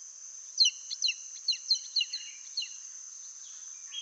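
A bird giving a quick series of about eight short chirps, each dipping slightly in pitch, over a steady high-pitched insect drone.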